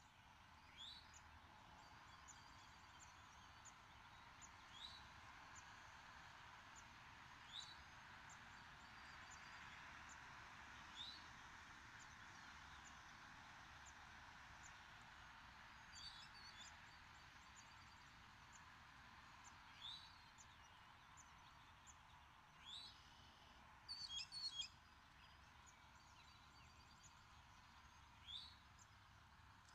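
Faint songbird calls: a short chirp every few seconds, a run of thin high ticks, and a quick cluster of notes about 24 seconds in, over a steady low hiss.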